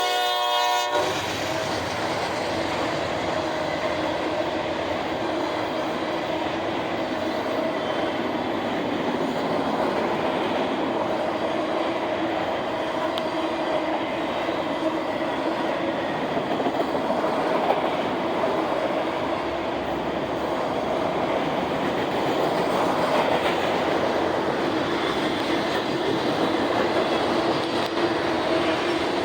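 Locomotive horn sounding a chord that cuts off about a second in, then a train rolling past steadily.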